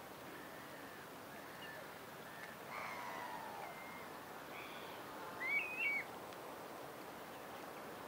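Birds chirping over a steady background hiss: scattered thin whistled notes, a longer call about three seconds in, and, loudest of all, two short rising-and-falling chirps about five and a half seconds in.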